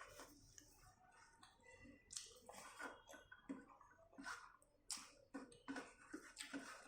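Faint, wet chewing and lip-smacking of someone eating pork in gravy with rice: irregular soft clicks and squishes, roughly two a second.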